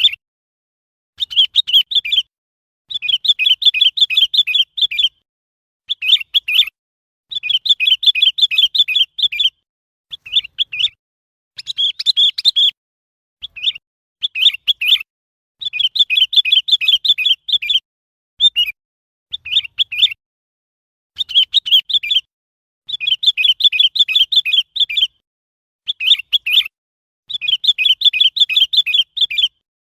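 Sooty-headed bulbul calling: repeated bursts of quick, chattering notes, some short and some about two seconds long, with brief pauses between them.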